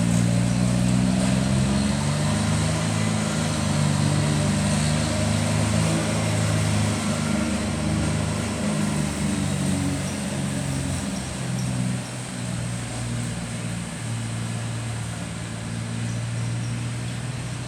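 Riding lawn mower engine running steadily under mowing load, a constant drone that eases off slightly about twelve seconds in.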